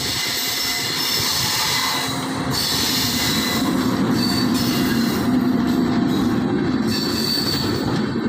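Electric locomotive followed by passenger coaches passing close by: a steady rumble of wheels on rails, with a high wheel squeal that comes and goes.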